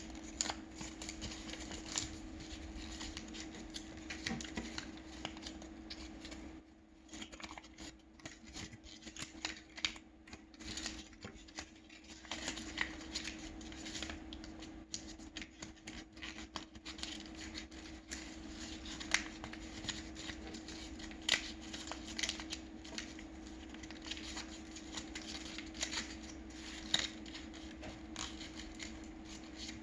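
Sheet of paper being folded and creased by hand, with irregular crinkling, rustling and crisp taps, over a steady low hum.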